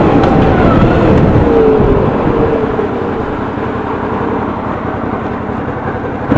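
Suzuki V-Strom 650's V-twin engine running under way, with a rush of wind noise; about two seconds in the engine note falls and the sound grows quieter.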